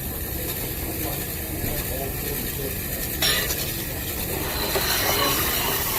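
Restaurant room noise: a steady background with small clinks and clatter of dishes and cutlery, and one sharp clack about three seconds in.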